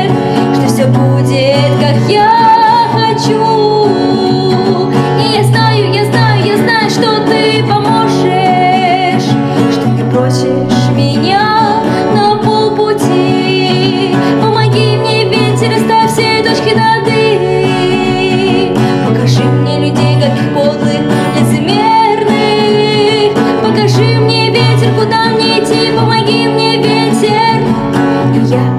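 Acoustic guitar accompanying a woman singing a melody.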